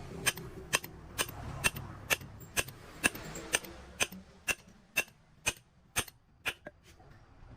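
Sharp mechanical clicks repeating evenly, about two a second, at a steady pace.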